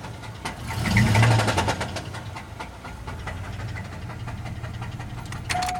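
GMC Jimmy's 4.3 Vortec V6 running with rod knock: a quick blip of the throttle about a second in, then idling with a steady knocking. Near the end the engine stops and a dashboard chime starts.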